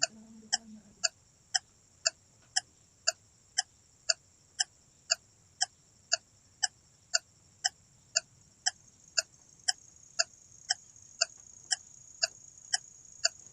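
An animal calling: short, evenly spaced chirps about twice a second, over a steady high hiss.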